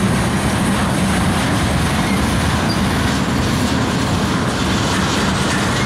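Freight train of black tank cars rolling past close by: steel wheels running on the rails in a steady, loud, unbroken noise.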